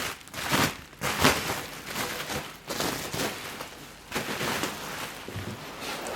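Packaging wrap rustling and crinkling in irregular bursts as an exhaust muffler is unwrapped and handled.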